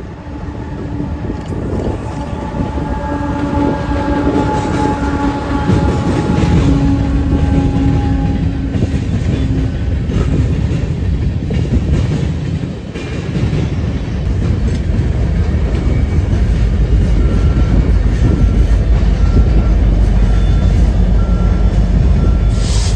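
Canadian Pacific freight train passing close by: steady rumble and rail clatter of covered hopper cars. A locomotive horn chord sounds from about two seconds in and fades out by about ten seconds. The low rumble swells again near the end as a mid-train locomotive rolls past.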